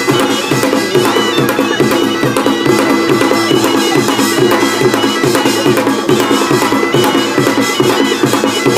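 Korean pungmul music: a percussion band playing a steady, driving beat under a sustained, reedy wind-instrument tone.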